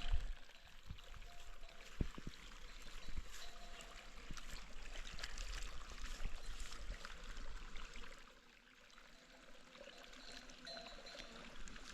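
Water pouring and trickling steadily, easing off briefly about eight seconds in before running again.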